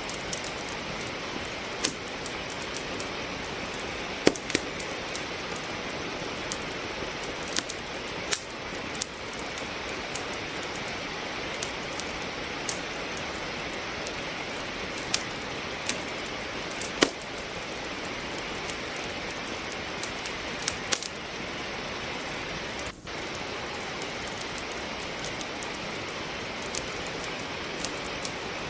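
Steady rain hiss mixed with the irregular crackles and pops of wood logs burning in a fireplace, a few of the pops sharp and loud.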